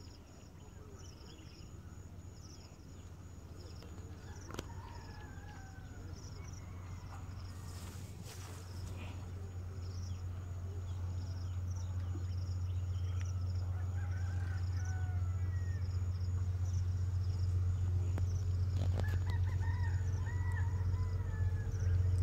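Low, steady rumble of an approaching train, growing steadily louder. A rooster crows a few times over it, and high chirps repeat in an even rhythm.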